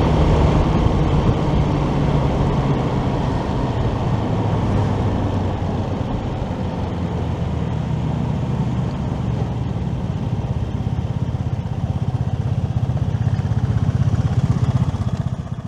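Motorcycle engine running at road speed with a low, rapidly pulsing drone, mixed with wind and road noise. It grows somewhat louder in the last few seconds.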